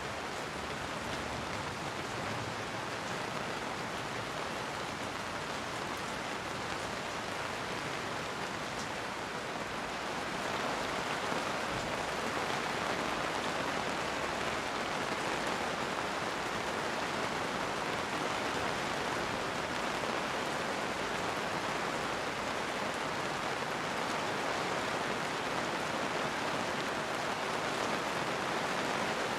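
Steady rain falling, an even hiss of drops that grows a little heavier about a third of the way through.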